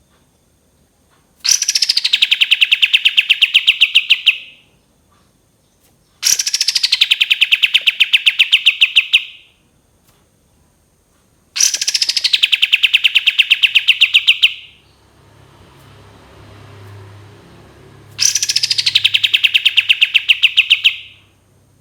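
Kapas tembak bird singing its long burst song: four bouts of about three seconds, each opening with a falling note and running straight into a fast, even rattle of repeated notes. A faint low hum lies between the third and fourth bouts.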